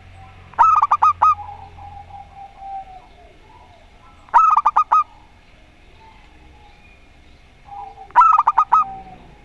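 Zebra doves (perkutut) cooing: three short phrases of quick staccato coos, roughly four seconds apart, with fainter cooing in between.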